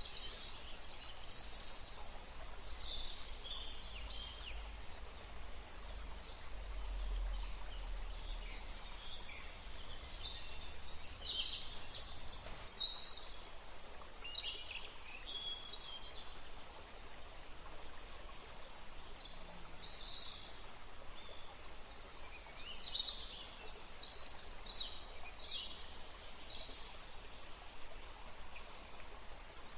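Small birds chirping and calling at irregular intervals, in clusters about a third of the way in and again past the middle, over a steady background hiss of the calm river.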